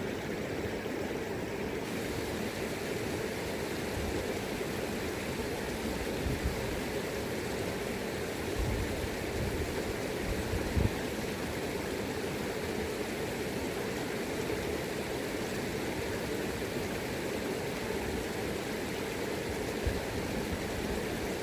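River current rushing steadily over rocks, with wind now and then buffeting the microphone in low thumps.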